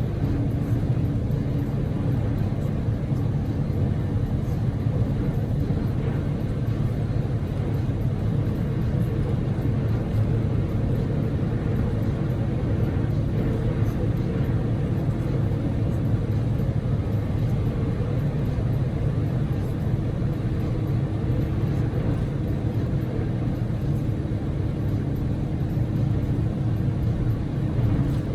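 Daihatsu Move L150S's 660 cc three-cylinder EF-VE engine and tyre rumble heard from inside the car while driving at a steady pace, a continuous low drone with a faint steady hum and no change in speed.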